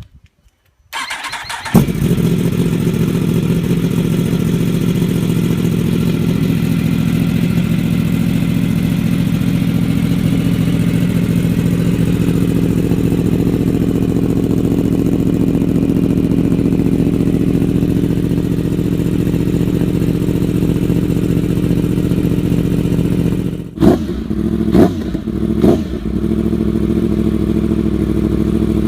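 A 1000 cc motorcycle engine cranks on the starter and catches about two seconds in, then idles steadily through its exhaust. Near the end the throttle is blipped three times in quick succession before it settles back to idle.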